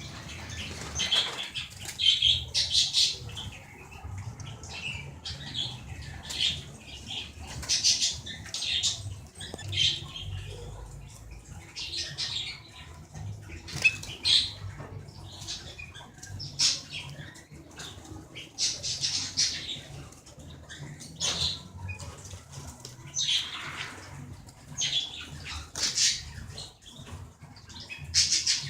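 Canaries and other small birds kept with doves or pigeons, chirping and warbling in short repeated bursts every second or two, with wing flapping.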